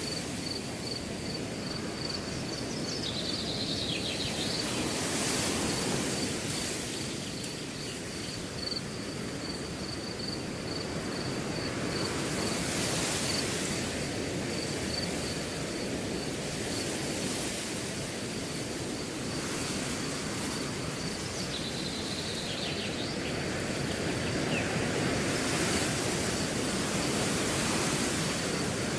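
Wind blowing through a grass field in gusts that swell and ease, with a cricket chirping steadily in a quick, even series of high pulses.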